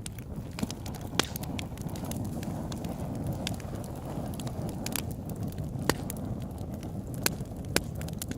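Campfire burning with a steady low rush and scattered sharp pops and snaps of burning wood, the loudest about a second in and near six seconds.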